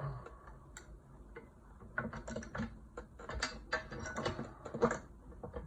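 Light metal clicks and rattles of tools and small tiller parts being handled during assembly, coming as a quick irregular run of clicks from about two to five seconds in.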